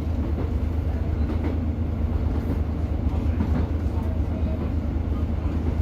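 Class 150 diesel multiple unit under way, heard on board: a steady low drone from its underfloor diesel engine and running gear.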